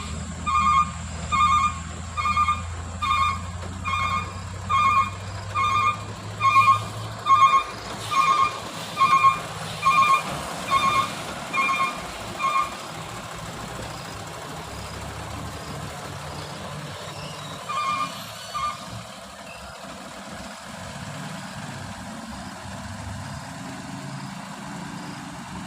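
Box truck's reversing alarm beeping about once a second while the truck backs down the hill after failing to climb it, over the low sound of its engine. The beeping stops about halfway through, then sounds twice more a few seconds later.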